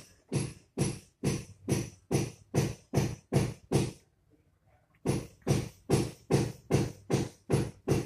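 A black bird calling in two rapid runs of loud, evenly spaced calls, about two and a half a second, with a pause of about a second between the runs.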